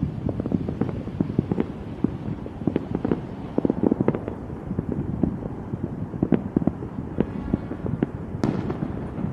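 Fireworks going off in quick succession: a dense, irregular crackle of pops and bangs, with a sharper crack near the end.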